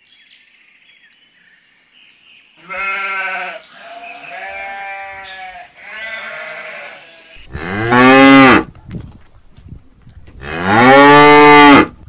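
Sheep and lambs bleating: three higher bleats, then two much louder, deeper drawn-out calls near the end.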